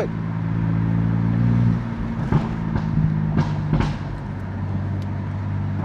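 BMW F80 M3's S55 twin-turbo inline-six running steadily while cruising, with a steady exhaust drone that eases off a little under two seconds in as the throttle is lifted, then holds steady at light load.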